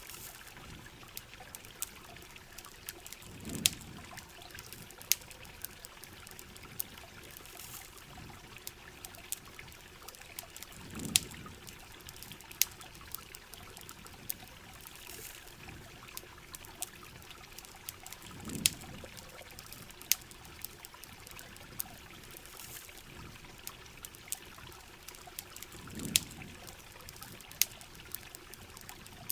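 Steady rain and running water with the sharp crackles and pops of a campfire scattered throughout. A low swell comes back about every seven and a half seconds.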